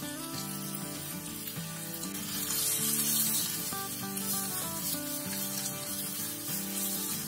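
Garlic vegetable stir-fry sizzling steadily in a pan, the sizzle swelling louder for about a second midway.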